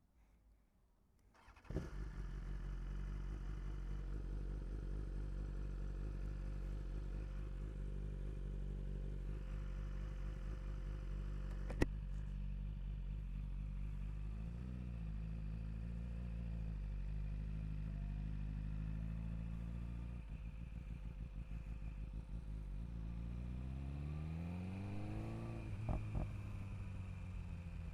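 2022 BMW S1000RR's inline-four engine starting up about two seconds in and idling steadily, with one sharp click near the middle. Near the end the revs climb in a long rising sweep, then drop back.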